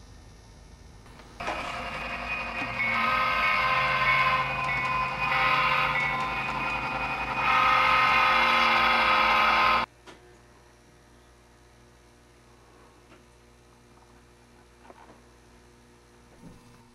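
Model train running on a layout: a steady mechanical hum and rumble with several steady tones, growing louder in two steps, then cutting off suddenly about ten seconds in.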